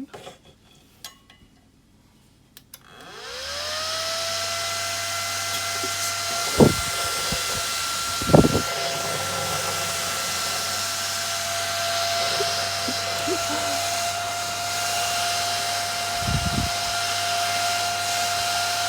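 Vizo Windstorm 80 mm case fan switched on about three seconds in. It gives a whine that rises in pitch as it spins up, then settles into a steady high whine over a strong rush of air. There are two sharp thumps a few seconds later and a lighter one near the end.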